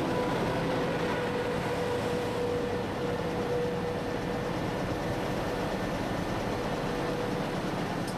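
Passenger coaches of an OSE train rolling past close alongside: a steady rumble of wheels on rail, with a steady mid-pitched whine that fades out near the end.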